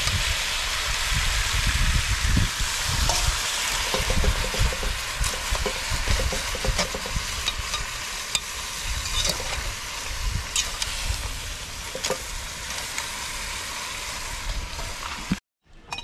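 Crabs and mussels sizzling in a pot over a charcoal fire while being stirred: a steady frying hiss with scattered clicks of the metal utensil against the pot. It cuts off suddenly near the end.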